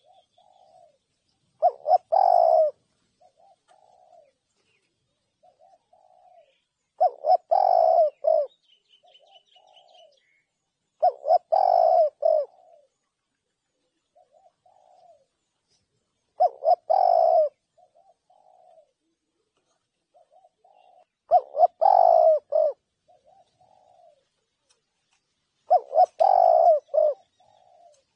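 Spotted dove cooing: six loud phrases of several coos each, about one every four to five seconds, with softer single coos in between. Faint high chirps of a small bird come and go in the background.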